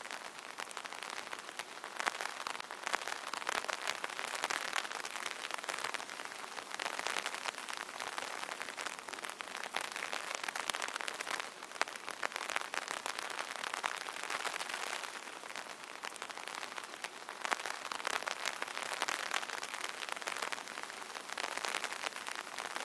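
Light rain pattering on an open umbrella's fabric canopy, a dense steady patter of fine drop ticks that swells and eases every few seconds.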